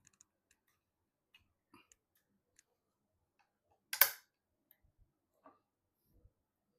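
Faint scattered taps and clicks of computer parts being handled and fitted, with one sharp, loud click about four seconds in and a few soft low knocks near the end.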